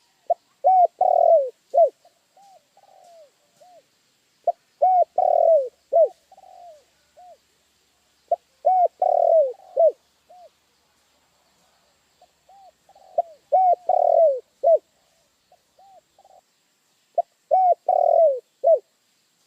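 Spotted dove (tekukur) cooing: five phrases repeated about four seconds apart, each a few loud, rounded coos followed by softer trailing coos.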